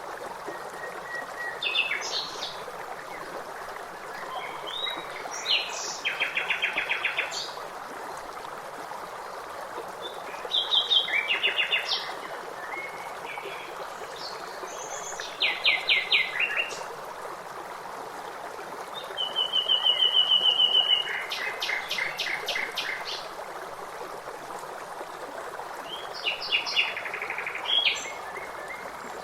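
A songbird singing short phrases every few seconds, several ending in a fast rattling trill. Under it runs the steady rush of flowing water.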